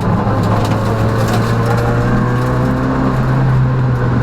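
Peugeot rally car's engine running at speed on a special stage, heard from inside the cabin, its pitch easing down a little midway.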